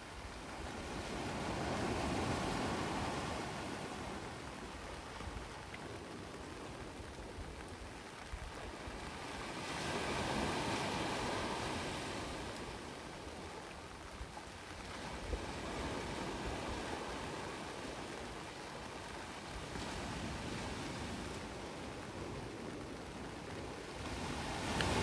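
Sea waves surging in and drawing back, swelling about every eight to ten seconds.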